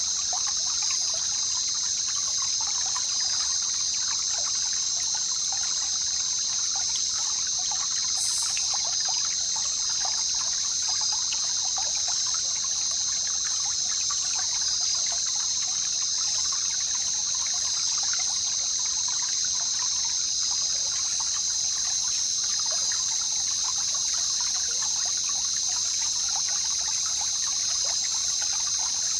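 Jungle river ambience: water trickling and babbling steadily, over a continuous high-pitched drone.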